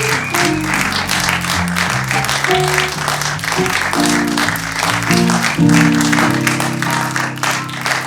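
Audience applauding and clapping over upbeat walk-on music, a quick stepping melody that settles onto a long held chord near the end.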